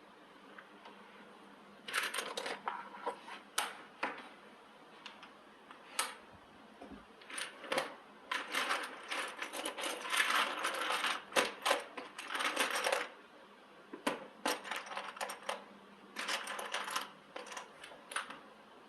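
Small hard objects, most likely metal parts or tools, clinking and clattering irregularly as they are handled. Busy runs of clatter come about a third of the way in and again near the end.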